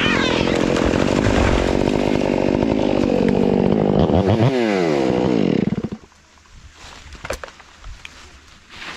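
Stihl chainsaw running at full throttle as it cuts into a large grand fir. About four and a half seconds in the engine pitch slides as the throttle comes off, and the saw stops about six seconds in. A few faint sharp snaps follow.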